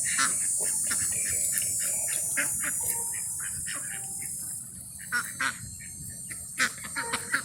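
A flock of geese and ducks calling: many short calls, overlapping and coming thick and fast, thinning out a little in the second half.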